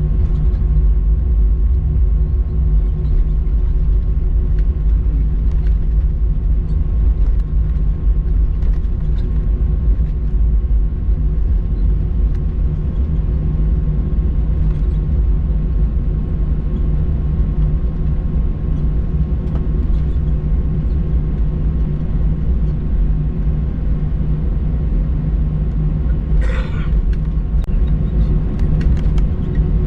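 Airbus A321-200 cabin noise: a steady low rumble of the engines and airframe with a few constant tones underneath. A brief higher sound comes about 26 seconds in.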